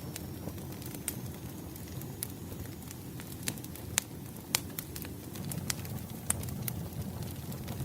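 Firewood fire crackling, with irregular sharp pops scattered through it over a low, steady rush of burning.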